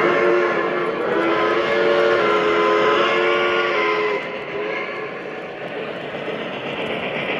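An O-scale model locomotive's sound system sounding a multi-note chord horn signal over the rumble of the train running on the track, with a short break about a second in. The horn stops about four seconds in, leaving the running noise.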